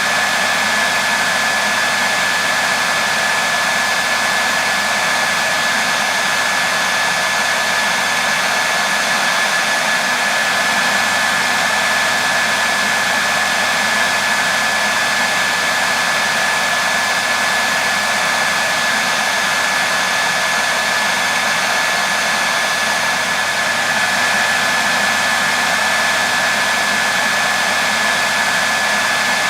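Hair dryer blowing steadily, a constant rushing air noise with a thin steady whine from its motor and fan.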